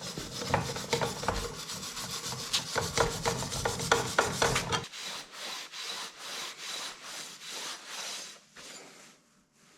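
Rapid, repeated scraping and rubbing strokes on a freshly TIG-welded stainless steel pipe as it is cleaned up. The strokes are heavier for about the first five seconds, then lighter, and stop shortly before the end.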